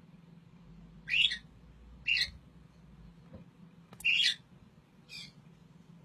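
A bird calling four times in short, high calls about a second apart, the last one fainter.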